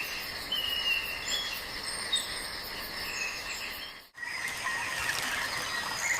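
Tropical forest ambience: insects droning steadily, with short whistled bird calls over them. About four seconds in it cuts off sharply and gives way to a denser insect chorus with a rasping trill.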